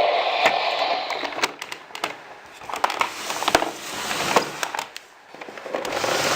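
Electronic sound effect from a Thunderbirds Tracy Island toy playset: a hissing rush that fades down and swells up again twice, with scattered sharp clicks.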